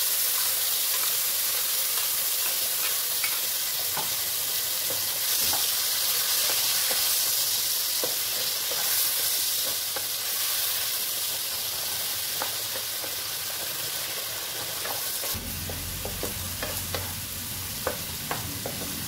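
Ground onion, garlic, ginger and tomato masala paste sizzling in hot oil in a kadhai, with scattered taps and scrapes of a spatula stirring it. The sizzle eases a little towards the end.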